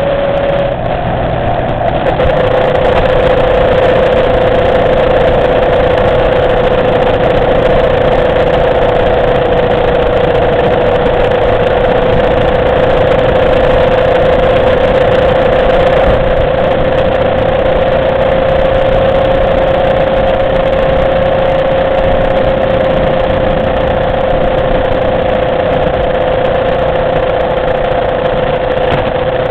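Motorcycle engine running at a steady, even pace while riding, under a constant rush of wind noise. The engine note dips briefly about a second in, then holds nearly level.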